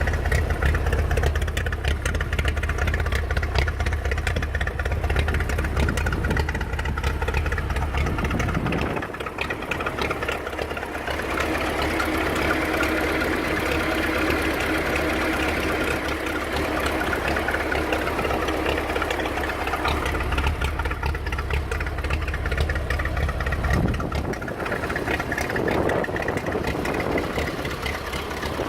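1937 Ferguson Brown Type A tractor's four-cylinder engine running steadily, its note changing about nine seconds in and again near twenty-four seconds.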